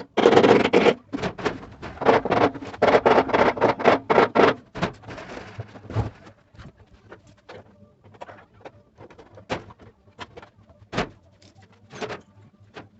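Rattling and scraping of hand tools and metal parts handled in quick succession for about five seconds, then scattered single clicks and knocks.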